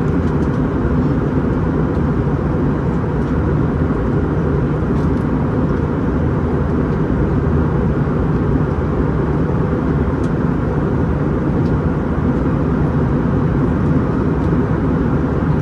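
Airbus A321-211 airliner cabin noise: the steady mix of engine and airflow noise heard from inside the cabin, even and mostly low-pitched, with no change in level.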